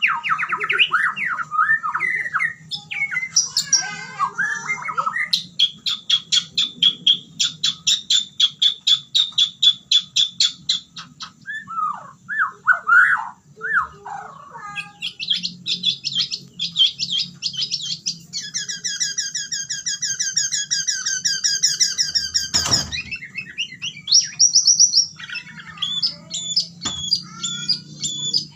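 White-rumped shama (murai batu) singing loudly and without pause, running through a varied song of whistled phrases, rapid trills of repeated notes and mimicked calls of other birds. One sharp knock sounds about three-quarters of the way through.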